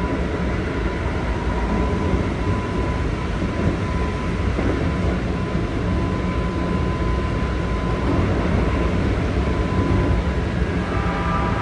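Keikyu 1500-series electric train (a 1700-subseries set with Toyo GTO-VVVF traction equipment) running at speed, heard inside the passenger car: a steady rumble of wheels and running gear with a thin steady high tone. Near the end a cluster of higher tones comes in over the rumble.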